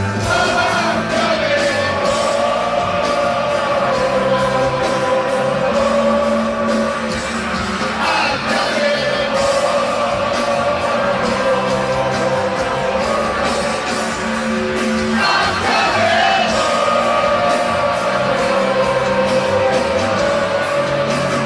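Live rock band (electric guitar, bass, drums, keyboards) playing a power ballad with held sung notes over it, recorded from among a stadium audience.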